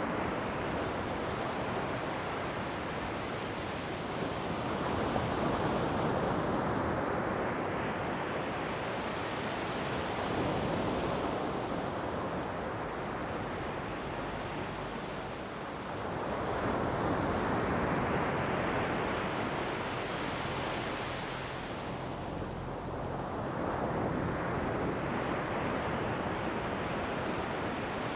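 Ocean waves breaking and washing on the shore in slow surges, the wash swelling and ebbing every five or six seconds.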